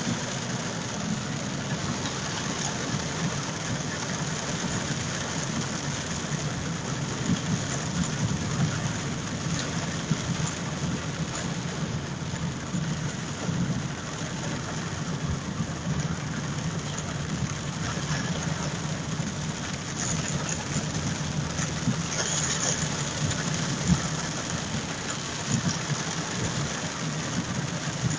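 Heavy rain falling steadily, with a car engine running underneath.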